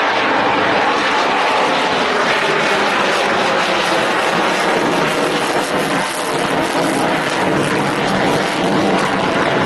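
A USAF F-16 Fighting Falcon's jet engine in a flying display: loud and steady, a dense rush of noise with a slight dip about six seconds in.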